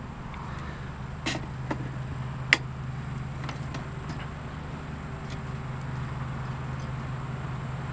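A vehicle engine runs with a steady low hum. A handful of sharp clicks come over it between about one and five seconds in, the loudest about two and a half seconds in.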